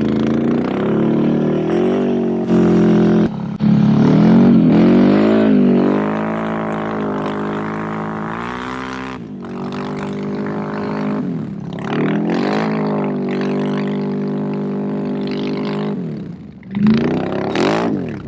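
Can-Am Renegade ATV engine running hard under the rider's throttle, its pitch rising and falling repeatedly, with a quick sharp rev near the end.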